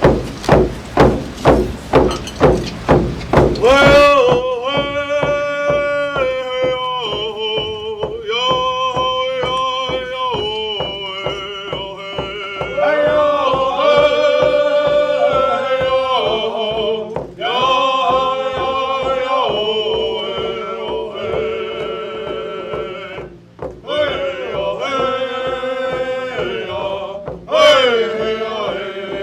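A drum beating steadily, a few beats a second. About four seconds in, a man's voice joins it with a chant-like song of long held notes, and the drum keeps the beat under it.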